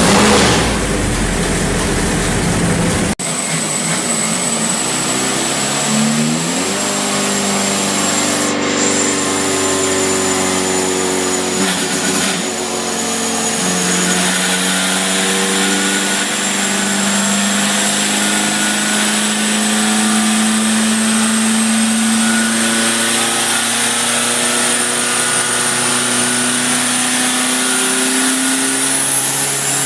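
A turbocharged engine is heard, loud and rough for about three seconds. After an abrupt cut, an engine runs at a fairly steady speed, its pitch drifting slowly up and down, with a thin high whistle above it.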